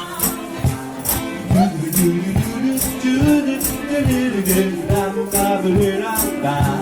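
Vocal group singing a jazz or pop arrangement over a steady beat of shaken hand percussion. Held, gliding sung notes sit over low bass notes.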